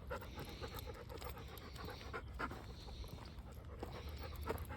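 A dog panting, faint and steady.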